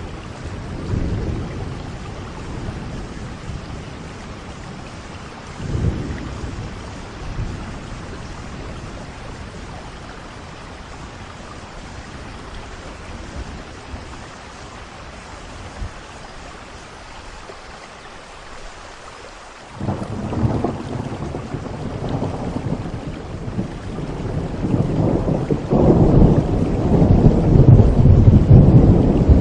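Steady rain with thunder. Low rumbles come about a second in and again around six seconds. A sudden thunderclap at about twenty seconds swells into long, loud rolling thunder near the end.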